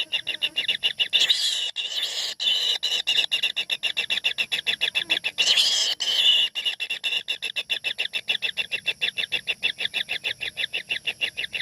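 Bird nestlings in a nest hole begging: a rapid, even train of short high calls, several a second, broken by louder, harsher bursts about a second in and again around the middle.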